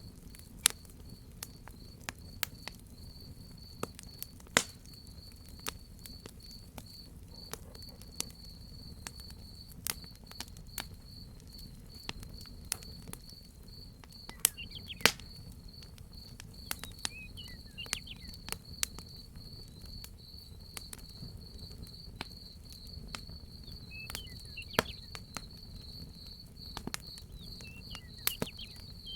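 Crackling wood fire with irregular sharp pops, some louder than others, over a steady high pulsing cricket chirp. A few faint short falling chirps come in during the second half.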